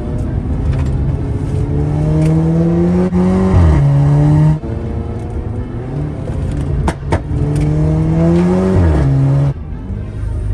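A car engine accelerating hard. Twice its revs climb steadily, then drop sharply at an upshift, and each run cuts off abruptly. Two sharp cracks come about 7 seconds in.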